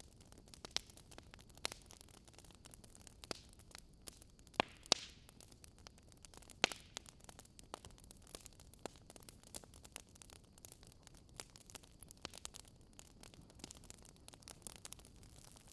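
Wood fire crackling: a soft steady hiss with irregular snaps and pops, a few louder pops around five and seven seconds in.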